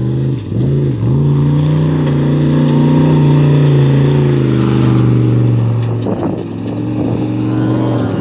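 Trophy truck engine running hard at a steady high pitch. The pitch dips briefly twice, about half a second and one second in, then settles lower about six seconds in.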